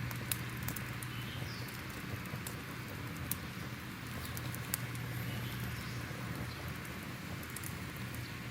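Crackling fire: a steady hiss with irregular sharp pops and snaps, over a low steady hum.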